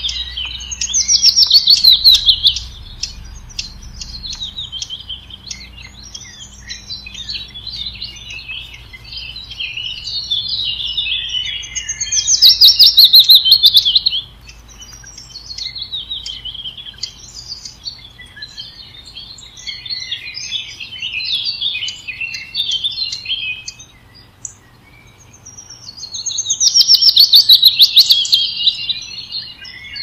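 Birds chirping and singing continuously, high-pitched, with three louder fast-trilled phrases of about two seconds each: near the start, about halfway, and near the end.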